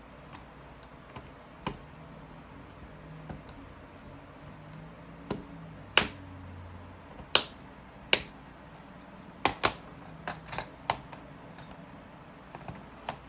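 Irregular sharp clicks and taps, about a dozen, with the loudest ones in the middle and a quick pair a little past halfway.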